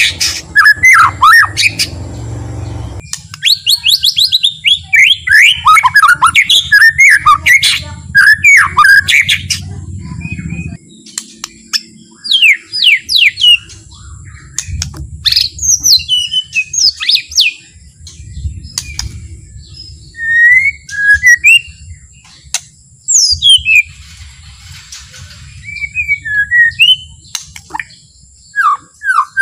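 White-rumped shama (murai batu) singing: loud runs of quick, varied whistled and chattering notes, broken by short pauses.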